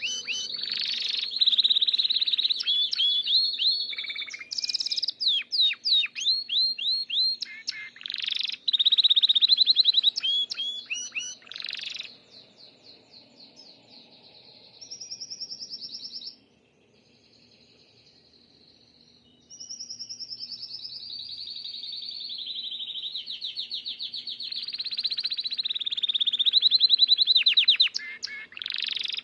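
Gloster canary singing a long song of rapid trills and rolling phrases. The song drops to a quieter, softer passage about twelve seconds in and returns loud from about nineteen seconds. The bird is warming up, coming into full song form.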